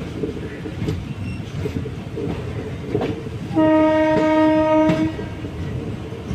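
Auroville Express coaches running with a steady rumble and rattle of the wheels on the track, heard from the open door of a moving coach. About halfway through, the train's locomotive horn sounds once, a single held tone lasting about a second and a half, the loudest sound here.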